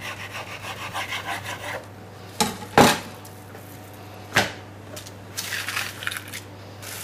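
A knife cutting on a chopping board, with quick back-and-forth sawing strokes for the first couple of seconds, then a few sharp knocks of the blade on the board, the loudest about three seconds in.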